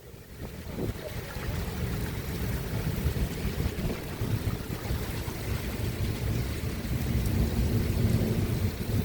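Rain falling steadily during a thunderstorm, with a low rumble underneath that builds over the first couple of seconds and then holds.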